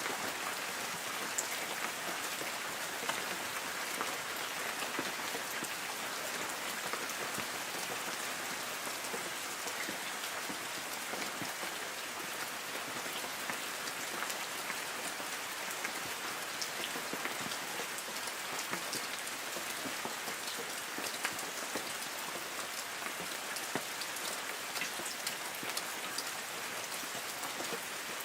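Light rain falling steadily on forest trees and leaves: an even hiss of rainfall dotted with many small, sharp drop hits.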